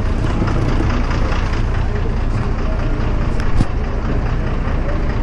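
Motorcycle engine idling steadily close to the microphone, with one short click about three and a half seconds in.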